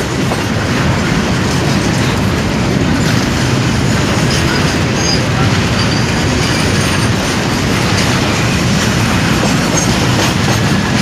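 Moving passenger train heard from inside a coach: a steady rumble with the clickety-clack of wheels running over the track, and faint high wheel squeals near the middle.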